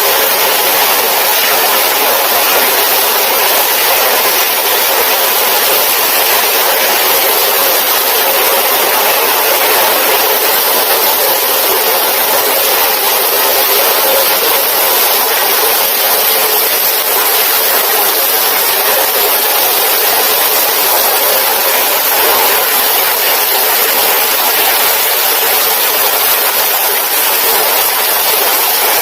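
Heavy rain coming down hard in a steady, loud downpour hiss.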